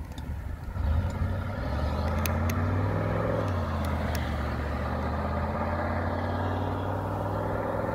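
Chevrolet Camaro IROC-Z's V8 engine and exhaust accelerating hard away down the road. The revs climb, dip once about three and a half seconds in at a gear change, then climb again.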